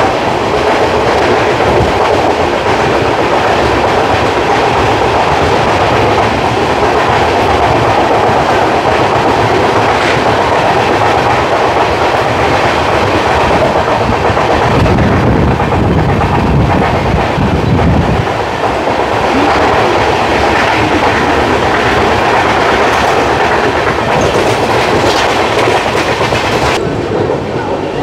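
Indian Railways express passenger train running at speed: steady rumble of the wheels on the track with the clickety-clack of rail joints. A deeper rumble swells for a few seconds about halfway through.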